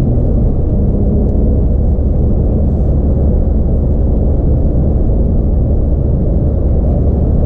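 Steady low rumble inside the cabin of a Porsche 911 (997) Carrera: its naturally aspirated flat-six running together with road noise, without a rising or falling engine note.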